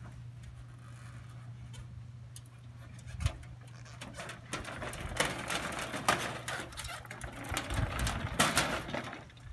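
A motorcycle being loaded up an aluminium diamond-plate ramp: a single knock about three seconds in, then several seconds of irregular clattering and rattling, over a steady low hum.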